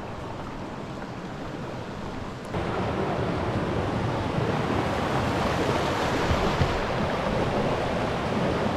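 Steady rush of flowing water, stepping up in loudness about two and a half seconds in and then holding steady.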